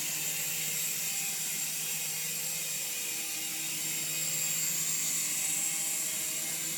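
Small battery-powered remote-control toy helicopter in flight, its electric motor and rotor blades whirring steadily with a high hiss.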